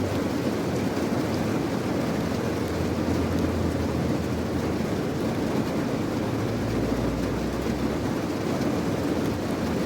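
Steady rain, a dense even hiss weighted toward the low end, with a deeper rumble swelling underneath from a few seconds in until near the end.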